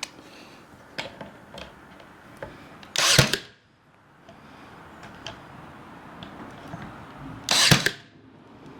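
A nail gun fires twice, about four and a half seconds apart, each shot a short loud burst, driving nails through the back panel of a wooden birdhouse. Light knocks and clicks of the boards being handled come in between.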